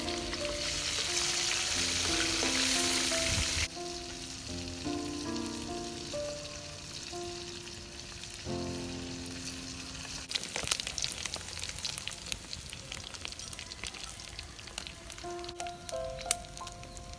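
Marinated rắn mối lizards deep-frying in hot oil in a wok. A loud sizzle for the first few seconds drops suddenly to a softer, steady sizzle, with sharp crackles from about ten seconds in. Soft background music with slow melodic notes plays throughout.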